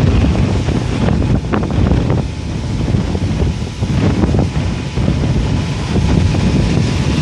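Strong summer-storm wind gusting hard against the microphone, a loud rumbling rush that swells and eases, with a few sharp clicks mixed in.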